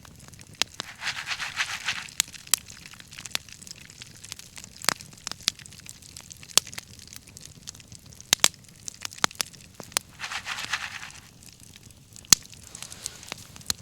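Wood bonfire crackling, with sharp pops scattered throughout and two rushing hisses about a second long, one near the start and one about ten seconds in.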